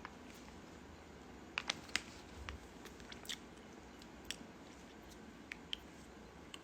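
A person eating a dried squid snack close to the microphone: faint, scattered small clicks and crunches of chewing, a few per second at most.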